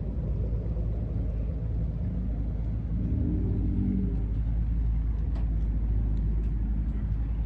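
Low, steady rumble of car engines running. A brief pitched sound comes about three seconds in, and there are a few faint clicks later.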